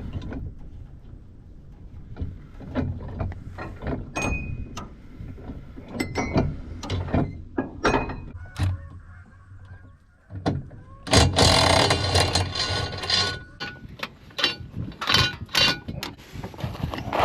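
Metal parts and hand tools being handled while mower knives are changed: a string of short clinks and knocks, with a louder rough, noisy stretch from about 11 to 13.5 seconds in.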